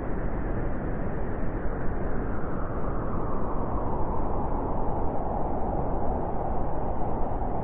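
Steady wind blowing: an even rushing noise without gusts.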